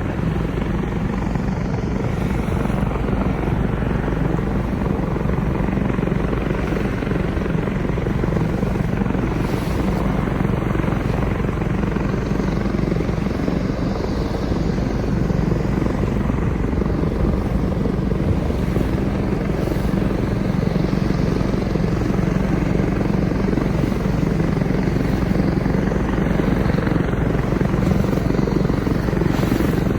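Engine of a small boat running steadily underway, an unbroken drone with a strong low hum.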